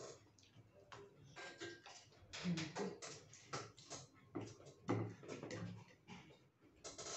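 Eating sounds: irregular clicks and smacks of chewing and lip-smacking as food is eaten by hand.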